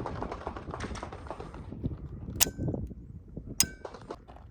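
Two shots from a SilencerCo Maxim 9 integrally suppressed 9mm pistol, a little over a second apart, each sharp crack followed by a brief metallic ring.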